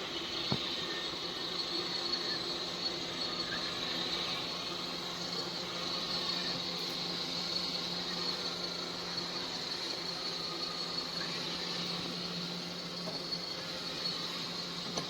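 Roborock Q7 Max+ robot vacuum running: a steady motor hum under a high fan whine, with a few faint clicks and rattles.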